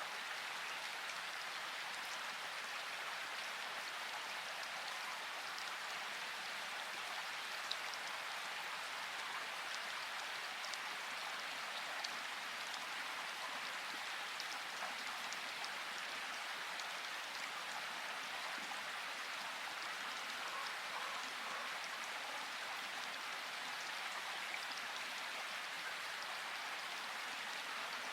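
Steady rain falling: an even, constant hiss with a few scattered louder drop ticks.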